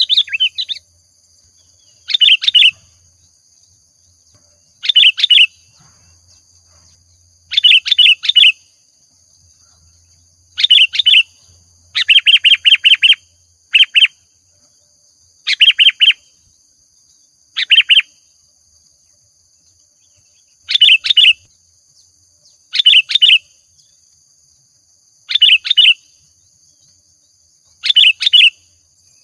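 Sooty-headed bulbul (kutilang) singing: short phrases of quick, loud notes repeated every two to three seconds, with one longer run of rapid repeated notes about twelve seconds in. Faint steady high-pitched tones sit beneath the song.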